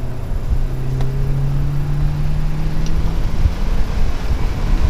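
Volkswagen Golf R's turbocharged 2.0-litre four-cylinder pulling under acceleration, its note rising steadily for about three seconds and then falling away, over road and tyre noise inside the cabin.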